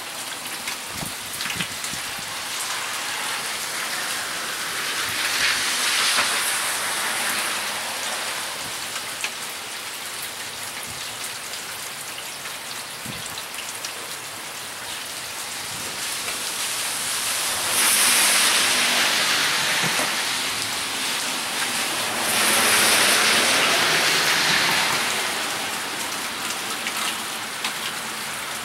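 Heavy rain pouring steadily onto a wet road, pavement and grass, a constant hiss that swells louder about five seconds in and twice more in the second half.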